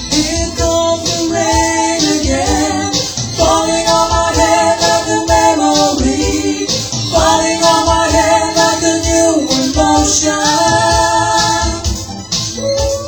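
Two women's voices singing long held notes that step between pitches every second or two, over a backing track with a steady ticking beat.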